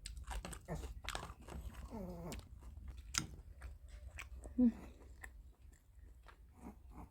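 A person chewing crunchy mustard-leaf kimchi close to the microphone: small crisp crunches and wet chewing clicks.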